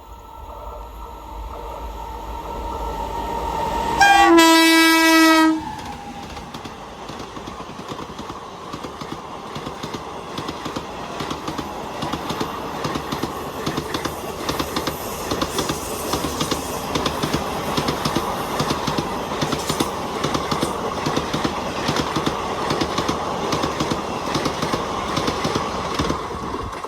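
An Indian Railways express train approaching at speed sounds its horn in one loud blast of about a second and a half, around four seconds in. It then runs past close by with a continuous rush and rapid wheel clatter until it stops suddenly near the end.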